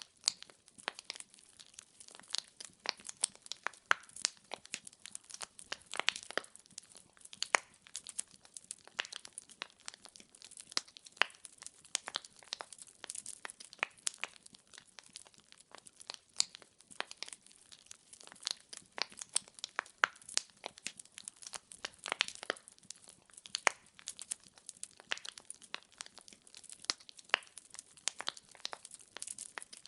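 Wood fire in a fireplace crackling, with many irregular sharp pops and snaps of burning logs over a soft low hiss.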